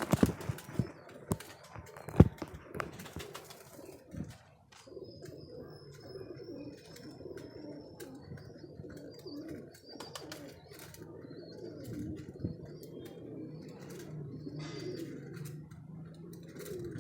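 Domestic pigeons cooing in a loft, a low, steady warbling murmur from several birds. Sharp clicks and knocks over the first few seconds, the loudest about two seconds in.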